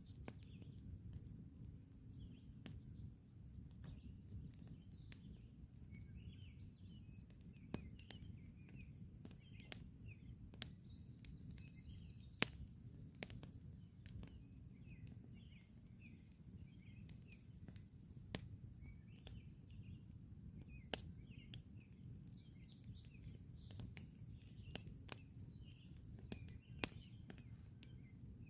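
Wood campfire crackling quietly, with scattered sharp pops, the sharpest about twelve seconds in, over a low steady rumble. Birds chirp and sing throughout.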